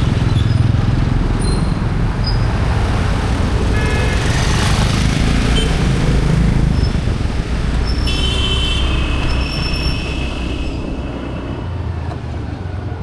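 Busy road traffic with a steady low rumble of passing vehicles. Vehicle horns honk about four seconds in, and again for a couple of seconds around the eight-second mark.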